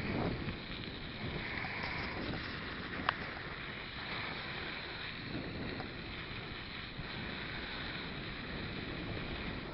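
Riding noise from a Stels mountain bike in motion: wind on the microphone over a steady rushing haze that swells and fades every couple of seconds. One sharp click about three seconds in.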